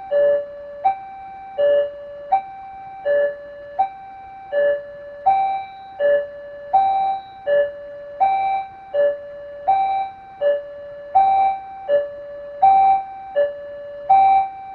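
Railway level crossing warning bell: an electronic two-tone chime, high then low, repeating evenly about every one and a half seconds, which signals that a train is approaching and the barrier is closing.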